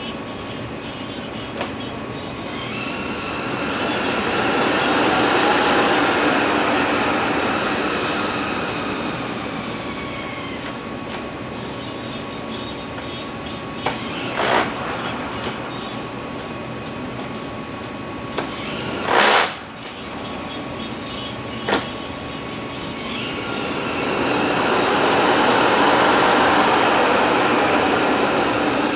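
Rebuilt heavy-truck drivetrain unit running on a test dyno: a steady mechanical whir with a whine, swelling louder twice, a few seconds in and again near the end. A short loud hiss comes about two-thirds of the way through, with a few sharp clicks around it.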